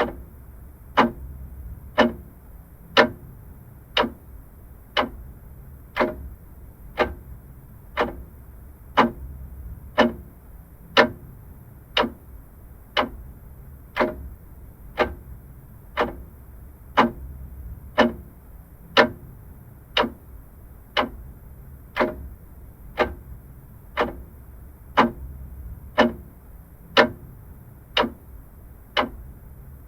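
Vintage mechanical clock ticking steadily, one tick a second, alternate ticks a little louder in a tick-tock pattern, over a faint low hum.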